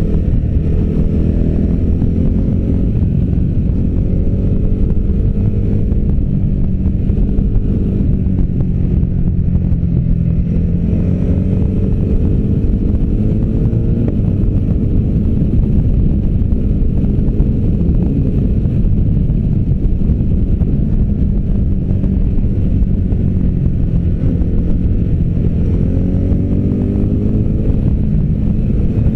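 V-twin adventure motorcycle engine running hard under way, the revs climbing and dropping again several times as the bike accelerates and shifts through the gears.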